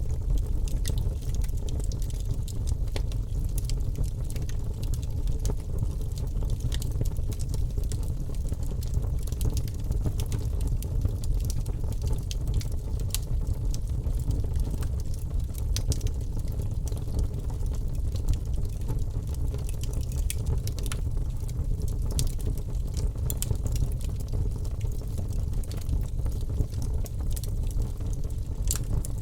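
Wood fire burning in a fireplace: a steady low rumble of flames with many small sharp crackles and pops scattered irregularly throughout.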